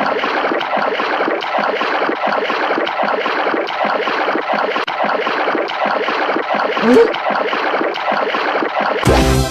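Continuous splashing and churning water, a dense irregular patter, with a short rising squeak about seven seconds in and a loud hit near the end.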